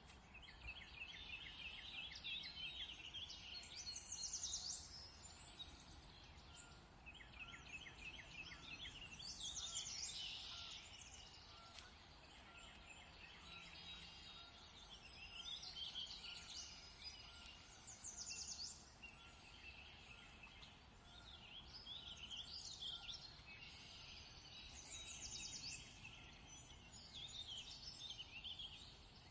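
Several songbirds singing, with rapid trills and chirping phrases coming in clusters every few seconds over a faint steady background hiss.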